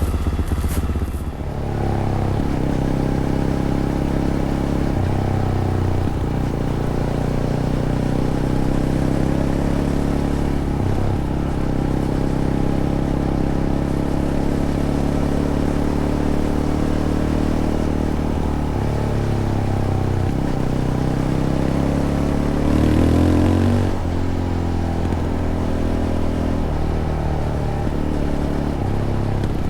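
Fantic Caballero 500's single-cylinder four-stroke engine through its stock Arrow exhaust, running under way as the bike is ridden, its pitch stepping up and down with the throttle. The engine eases off briefly about a second in, and there is a short louder rev about three-quarters of the way through.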